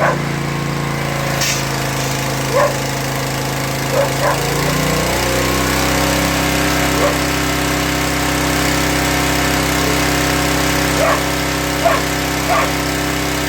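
Small single-cylinder petrol engine running steadily, its note stepping up about five seconds in. A dog barks in short yaps about eight times over it.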